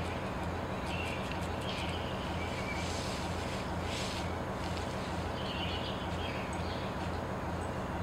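Small birds chirping intermittently, a few short high chirps, over a steady outdoor background of noise with a low rumble.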